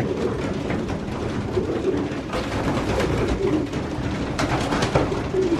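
A loft full of young racing pigeons cooing together, several birds overlapping in a continuous low warble, with a few short sharp clicks in the middle and near the end.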